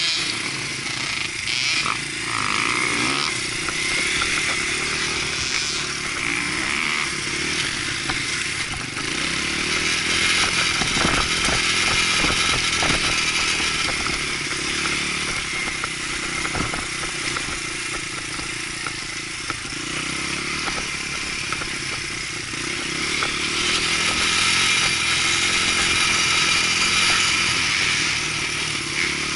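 Dirt bike engine running and being ridden, its engine speed rising and falling throughout.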